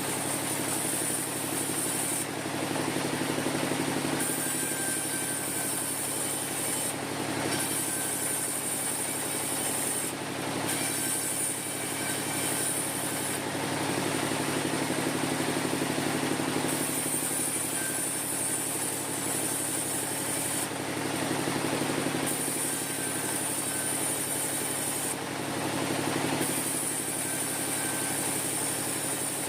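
Sawmill machinery running steadily, with a high hiss that comes and goes every few seconds.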